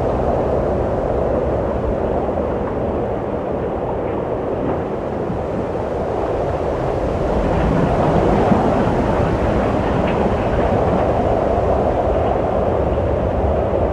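Wind blowing steadily with a low, even rushing, swelling slightly a little past the middle.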